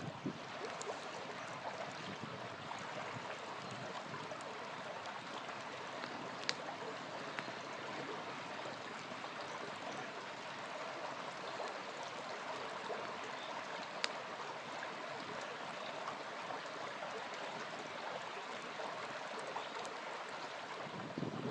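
Small river flowing in a steady rush, with a few sharp pops from a crackling campfire scattered through it.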